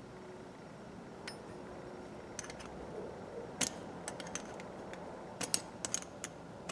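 Irregular small metal clicks and taps from the parts of a Craftsman 1/4" ratchet being worked by hand while a small retaining pin is pushed down to free the mechanism. One sharper click comes about halfway through, with clusters of quicker clicks near the end.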